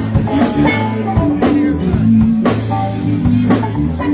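Live rock band playing: electric guitar over a steady bass line, with a drum kit keeping the beat.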